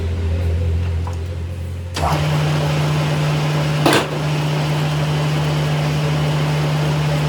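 A machine running with a steady hum that jumps to a higher pitch, with more hiss, about two seconds in, and a single sharp click about four seconds in.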